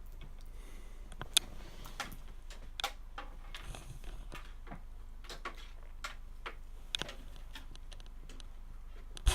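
Irregular light clicks and taps of hands fitting computer components into a PC case, with a sharper knock about a second and a half in and a louder one near the end, over a low steady hum.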